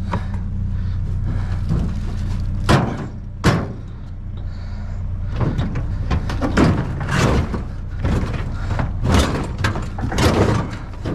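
A vehicle engine running steadily, with two sharp knocks about three seconds in and a run of clattering knocks and bangs through the second half.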